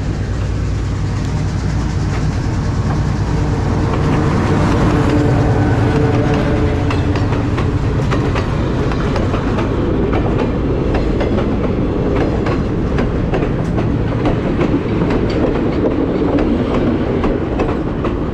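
Goods train passing slowly, at about 10 km/h: a steady low locomotive rumble that swells to its loudest about five seconds in, then from about ten seconds in a rapid run of wheel clicks and clacks over the rail joints.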